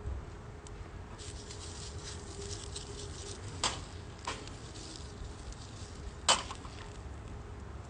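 Wood fire crackling, with a light patter of small crackles and three sharp pops, the loudest near the end.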